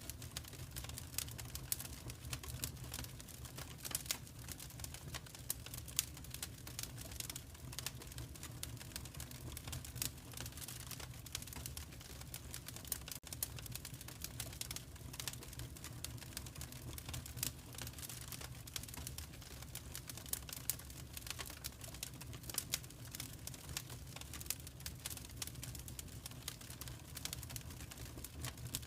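Fireplace wood fire crackling: irregular quick snaps and pops over a steady low rumble.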